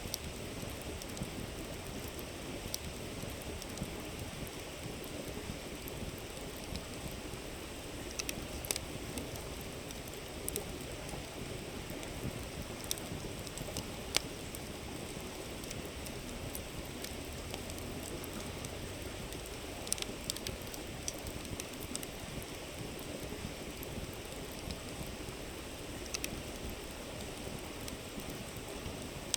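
River water babbling steadily, with a wood campfire crackling over it in occasional sharp pops.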